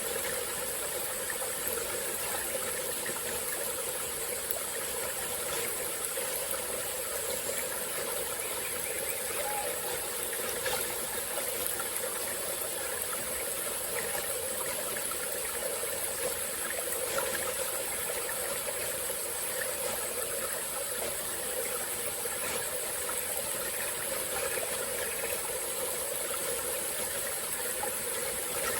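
Small tropical-forest stream running and trickling steadily, with a constant high-pitched drone of insects over it.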